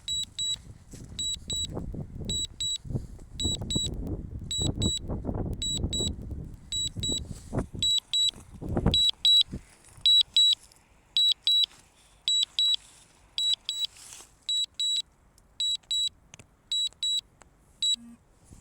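DJI Mavic Mini remote controller sounding its warning: quick pairs of short high beeps repeating steadily, the alert for low battery and return-to-home. A low rumble lies under the beeps and stops about nine seconds in.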